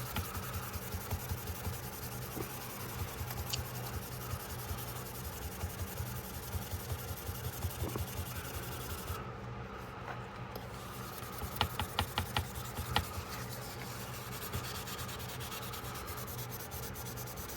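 Steady hand rubbing and scrubbing at the metal of a pocketknife blade, with a quick run of small sharp clicks a little after halfway.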